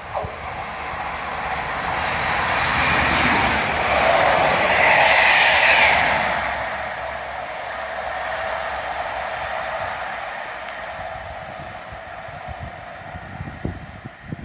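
Train with Class 43 HST power cars passing: the noise of the diesel power cars and wheels on the rails builds, peaks about five seconds in, then slowly dies away.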